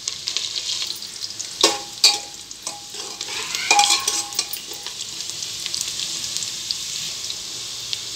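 Small potatoes sizzling as they fry in hot mustard oil with onions in a pressure cooker, stirred with a spoon. A few sharp metal clinks against the pot ring out in the first four seconds.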